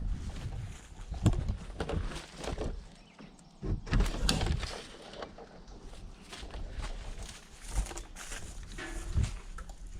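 Footsteps and scuffing, with irregular thumps and bumps of handling noise on the microphone.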